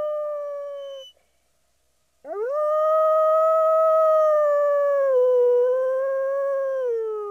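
Wolf howling: the tail of one long howl falls and fades about a second in. After a short pause a new howl swoops up, holds steady with a slight dip midway, and falls away near the end.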